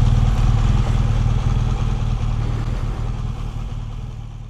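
Motorcycle engine running steadily at a low, even speed, fading out near the end.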